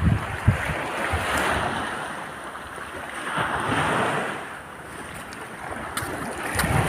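Sea waves washing in over shoreline rocks, the rush swelling and ebbing twice, with wind buffeting the microphone near the start.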